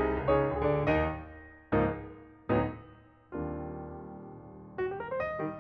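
Piano music: struck notes and chords, each fading away, with a longer-held chord about three seconds in and quicker notes near the end.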